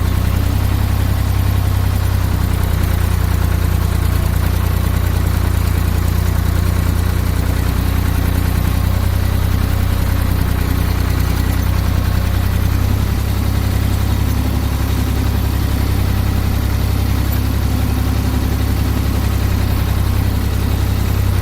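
An engine idling steadily with a loud, even low rumble.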